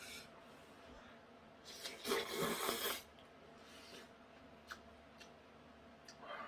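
A person slurping instant noodles in one loud burst lasting just over a second, followed by a few faint clicks.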